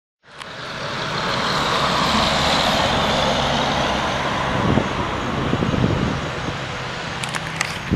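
Chevrolet Express van's tuned Duramax V8 turbo-diesel running hard. A whine slowly falls in pitch over the first few seconds, then the engine settles into a steady hum, with a few sharp clicks near the end.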